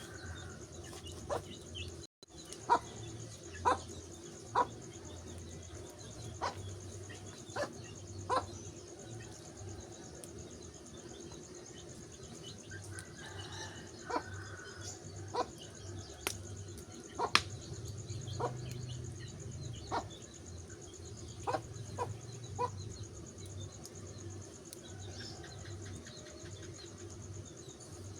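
Wood fire crackling: irregular sharp pops and snaps, a few every several seconds, the loudest near the start, over a steady low background.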